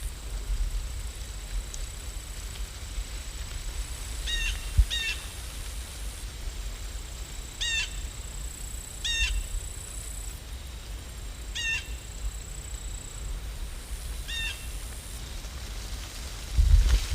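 A bird calling in short, repeated calls, about six of them spaced a second or more apart, over a steady low rumble.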